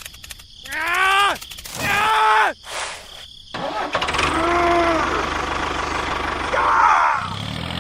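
Two pitched calls that rise and fall, then an engine starts about three and a half seconds in and runs steadily. Near the end it settles into a low, even idle.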